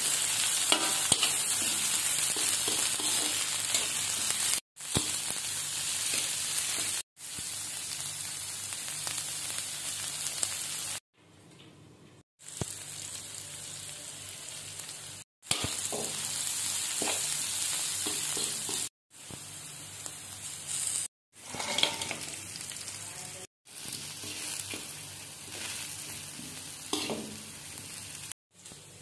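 Stir-fry of sliced vegetables sizzling in a hot metal wok while a spatula stirs and scrapes them across the pan. The sizzling is heard in short stretches that cut off abruptly several times.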